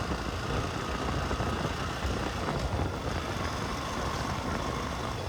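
Motorcycle engine running steadily while being ridden along a road, with a steady rush of road noise.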